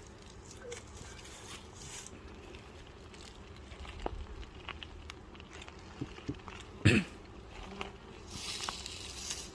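Scattered light knocks, clicks and scrapes of beehive frames being handled during a hive inspection, with one short, louder sound about seven seconds in and a brief rustling hiss near the end.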